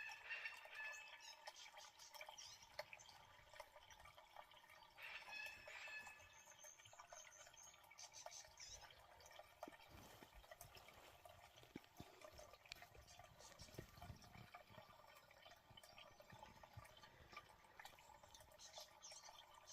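Faint water dripping and lapping, with scattered small splashes and a few faint bird chirps.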